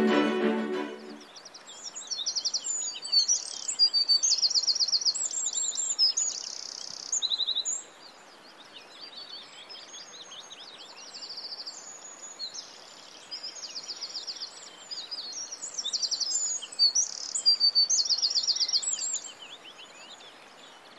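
Songbirds singing, with many quick chirps and fast trills, over a faint steady outdoor hiss; the birds die away near the end. Music fades out about a second in.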